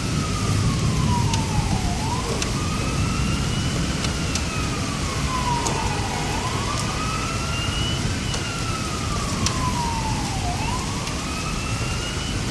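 Emergency vehicle siren wailing, its pitch rising and falling slowly about every four seconds, over a steady rush of rain.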